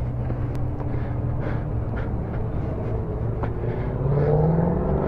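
Motorcycle engine running at low revs, then revving up, its pitch and loudness rising about four seconds in.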